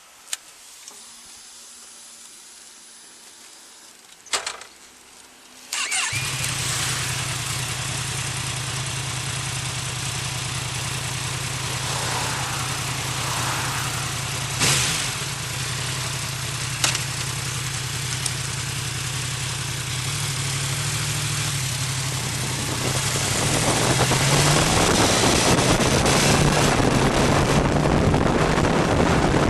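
Yamaha motorcycle engine started after a few sharp clicks, then idling steadily. Near the end the engine note climbs in pitch and gets louder as the revs come up.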